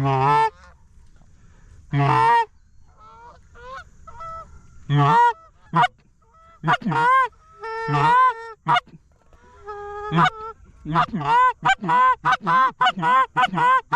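Canada geese honking: scattered honks, then a rapid run of honks, about four a second, in the last few seconds.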